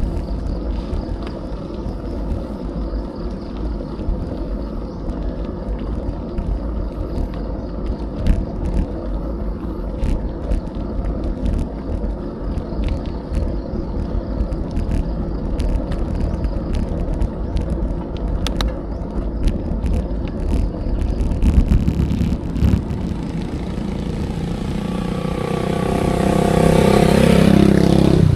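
Wind rush and tyre rumble from a bicycle ride on a rough road, with scattered small clicks and rattles. Near the end a motor vehicle engine approaches and grows louder, becoming the loudest sound.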